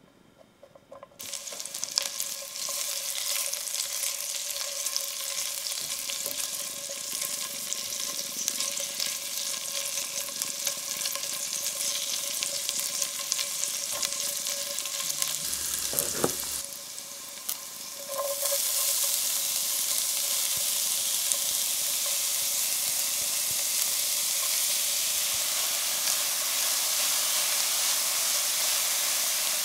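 Diced chorizo frying and sizzling in a stainless steel sauté pan, stirred with a silicone spatula, the sizzle starting about a second in with scattered scraping clicks. It dips briefly in the middle, then comes back louder and steady with chopped shallot and garlic frying in the chorizo oil.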